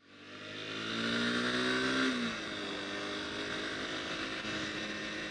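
Honda CBR250R's single-cylinder engine pulling under throttle, its pitch rising for about two seconds, then dropping and settling into a steady run.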